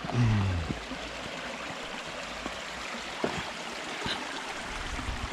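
Stream water flowing steadily, with a short low falling vocal sound near the start and a few faint knocks.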